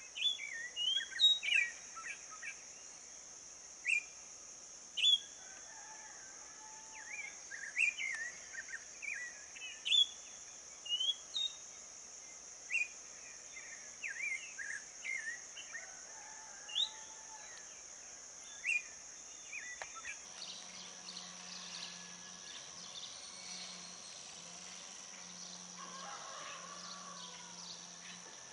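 Birds singing in a dawn chorus: short, sharp chirps and whistles come every second or so, over a steady high-pitched buzz. After about twenty seconds the sharp chirps give way to fainter, busier chirping and a low broken hum.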